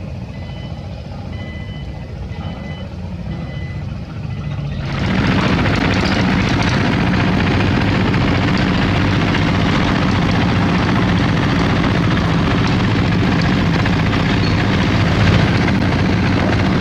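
Heavy diesel construction machinery: a reversing alarm beeps in a steady on-off rhythm over a low engine rumble, then about five seconds in a much louder diesel engine noise suddenly takes over and runs steadily.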